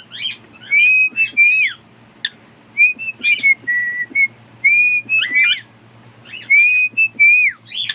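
Pet cockatiel whistling a tune in short phrases of clear notes, some held and some sliding down, with brief pauses between phrases.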